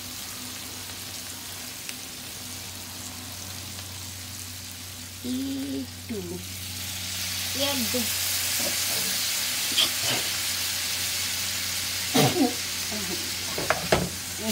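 Tomatoes and spices sizzling in oil in a nonstick frying pan, the sizzle growing louder about halfway through. Near the end a metal spatula scrapes and stirs in the pan.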